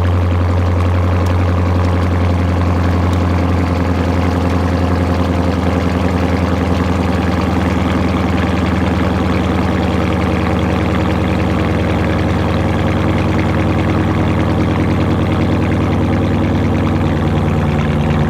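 Dodge Challenger's Hemi V8 idling steadily through a straight-piped exhaust with no restrictions.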